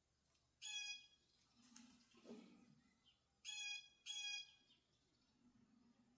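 A bird calling faintly three times, short harsh calls of about half a second each: one near the start and two in quick succession about three and a half seconds in. The bird is thought to be a blue jay.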